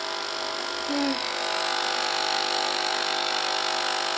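Nespresso Pixie's vibratory pump buzzing steadily as it pumps water through the machine in a rinse run without a capsule.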